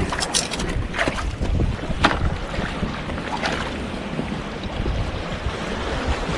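Strong wind buffeting the microphone over the wash of the sea, with a few short, sharp knocks or crunches in the first half.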